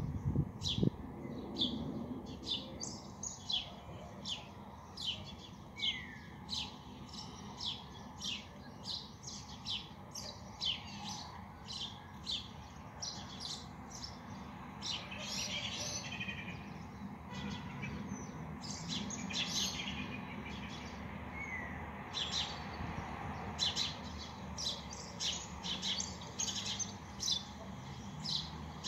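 Small birds chirping over and over, a few short high chirps a second, above a faint low hum. A couple of dull thumps come right at the start.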